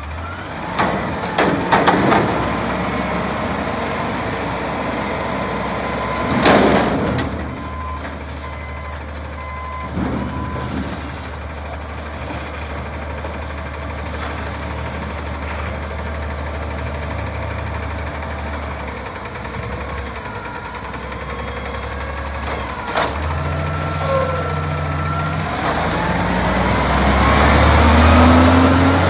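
Garbage truck's diesel engine running steadily, with a couple of sharp clanks, then revving up and rising in pitch near the end as the truck pulls away.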